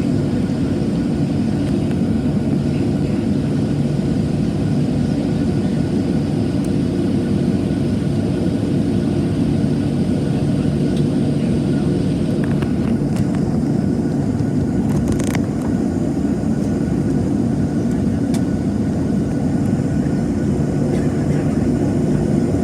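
Boeing 737-700's CFM56-7B jet engines, a steady rumble with a low even hum that holds at one level throughout.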